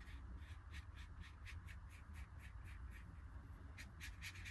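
Pen nib scratching on paper in quick, repeated hatching strokes, about three to four a second, which speed up near the end.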